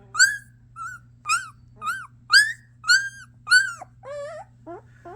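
Nine-day-old German Shepherd puppy whining: a string of about eight short, high-pitched squeals, each rising and then falling, roughly two a second.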